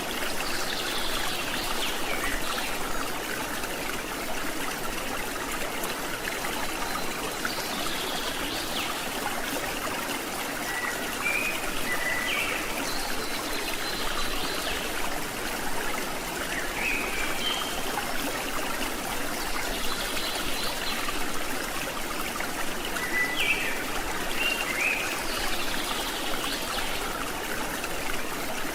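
Stream water flowing and trickling steadily over rocks, with short high chirps every few seconds.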